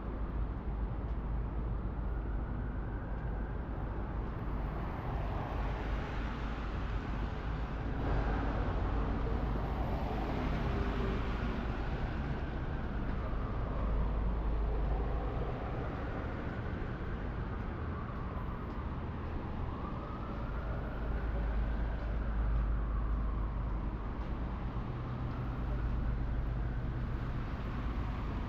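Steady city traffic rumble, with a distant emergency-vehicle siren wailing, slowly rising and falling in pitch over and over, through most of the stretch.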